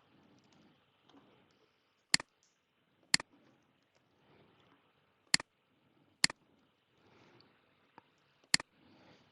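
Computer mouse clicking: five sharp clicks, unevenly spaced one to two seconds apart, several heard as a quick double click of press and release.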